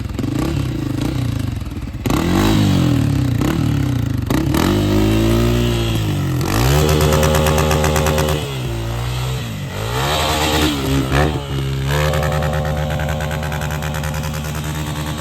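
Dirt bike engine revved hard again and again, its pitch climbing and dropping several times over. The rider says the clutch is torped, burnt out.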